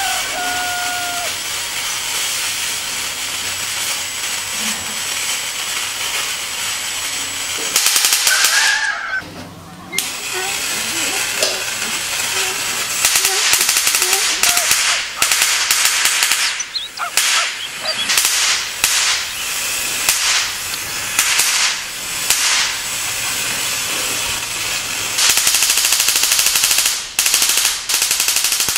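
High-voltage corona discharge at a homemade ion thruster's emitter points: a steady electric hiss with fast crackling, breaking several times into louder bursts of rapid sparking snaps. It cuts out briefly about nine seconds in.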